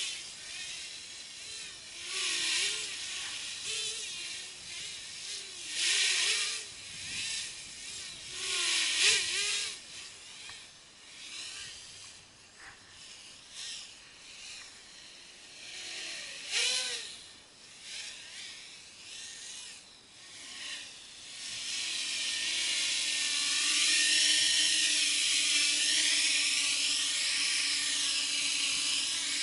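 Small 200 mm quadcopter's brushless motors and propellers whining, rising and falling in pitch with throttle in bursts every few seconds. From about two-thirds of the way in they hold a steady, louder whine.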